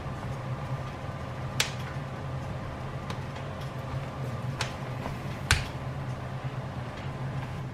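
Wood fire in a fireplace crackling, with a few sharp, separate pops spread through, over a steady low hum.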